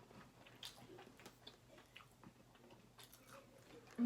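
Faint chewing and biting of food, with scattered soft crunches and mouth clicks.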